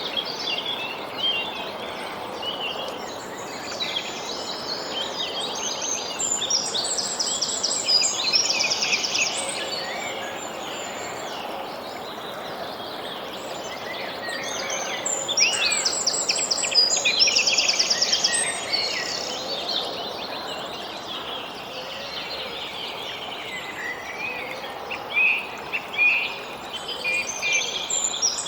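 Several songbirds singing and chirping over a steady background hiss, with short whistled notes and fast trills, busiest about a quarter and again just over half of the way through.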